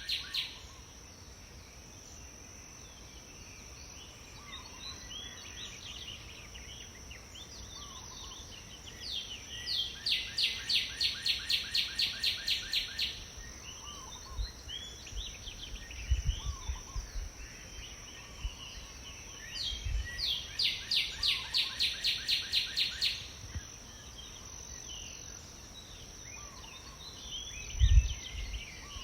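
Wild birds singing outdoors: twice a bird delivers a rapid, evenly paced trill of a dozen or more notes, with scattered shorter chirps from other birds between. A steady thin high tone sits underneath, and a few dull low thumps come near the end.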